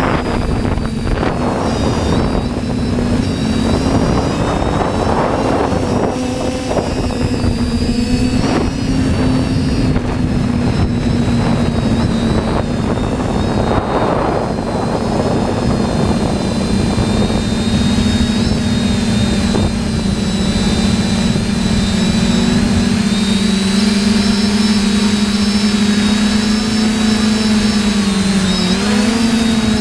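TBS Discovery quadcopter's electric motors and propellers humming steadily in flight, the pitch wavering slightly and dipping briefly near the end. Gusts of wind buffet the microphone during the first half.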